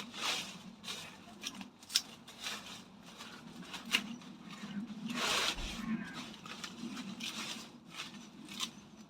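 Comfrey leaves and stems rustling as they are cleared from the path by hand, with irregular sharp clicks and a louder rustle about halfway through.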